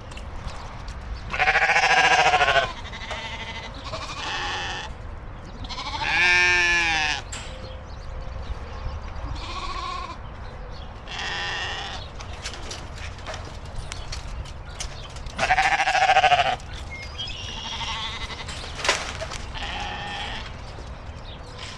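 Sheep bleating repeatedly while they wait to be fed: several wavering bleats, three of them loud and the rest fainter from further off. A single sharp click comes near the end.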